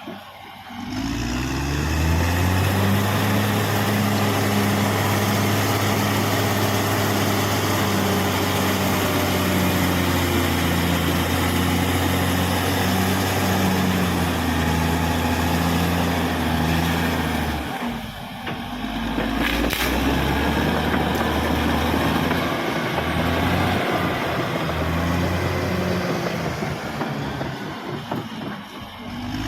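Caterpillar D6R XL bulldozer's diesel engine running steadily under load with the noise of the machine working, rising in pitch about a second in. It drops away briefly about eighteen seconds in and again near the end.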